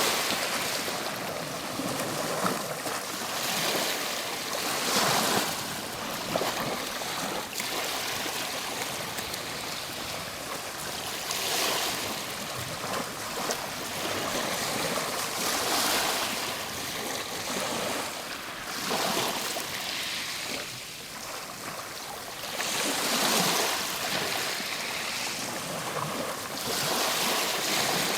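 Ocean waves breaking and washing on a shore, surging every four to five seconds over a constant wash of surf.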